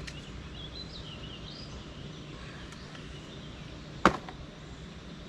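A bird chirping a few short notes that slide up and down, over a low steady hum from boat motors out on the lake. About four seconds in comes one sharp click, the loudest sound.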